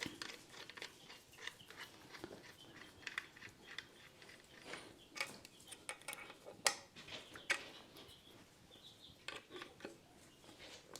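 Faint, scattered metallic clicks and taps as a washer and acorn nut are fitted and tightened on an e-bike's front wheel axle, with a few sharper clinks in the middle.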